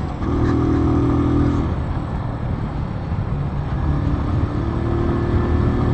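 Keeway Cafe Racer 152's single-cylinder engine pulling steadily up a climb, with wind and road noise; the engine note sinks under the wind for a couple of seconds in the middle and comes back.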